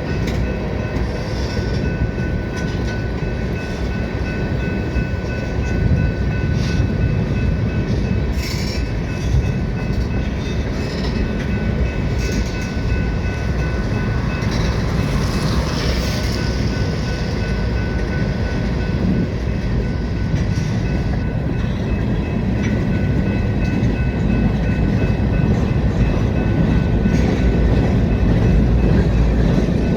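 Freight train cars of a manifest train rolling past: a steady, loud rumble of steel wheels on rail, with occasional sharp clicks and a faint steady high ringing over it.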